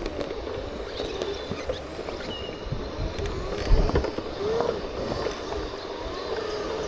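Segway motors whining, the pitch gliding up and down as the machines balance and change speed, over wind rumble on the microphone. A thump near four seconds in.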